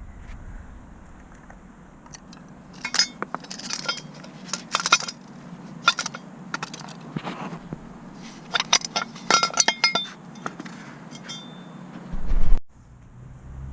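Metal tools or small metal parts clinking and scraping against each other in a quick irregular series of sharp, ringing clinks, with a brief louder low thump near the end.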